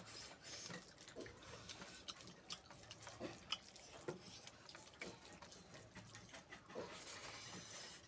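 Faint wet chewing and lip-smacking of someone eating pork feet, a string of short irregular mouth clicks.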